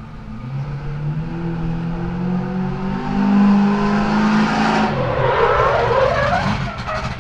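Car engine revving and accelerating. Its pitch climbs steadily, and about five seconds in it gives way to a higher, wavering sound.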